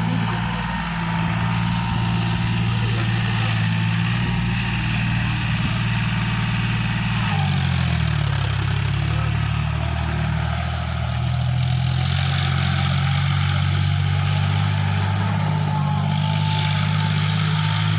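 John Deere tractor's diesel engine running steadily, its note shifting about seven seconds in as the engine speed changes.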